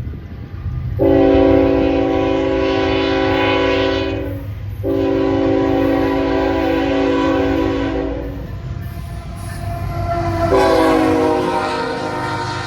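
Nathan K5HL five-chime air horn on a GE ET44AC locomotive blowing two long blasts and a shorter third, over the low rumble of the passing train.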